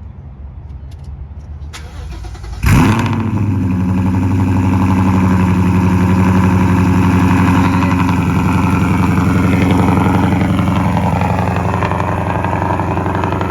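A car engine fires up with a sudden loud burst about two and a half seconds in, then settles into a steady idle.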